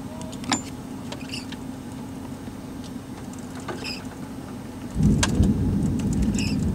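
Steady low hum of an idling vehicle heard from inside, with a few faint clicks. About five seconds in, a much louder low rumble sets in and carries on.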